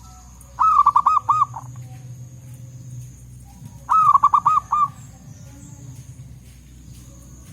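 Zebra dove (perkutut) singing: two quick bursts of five or six rapid, rippling coos, the second about three seconds after the first. A faint steady high whine and a low hum run underneath.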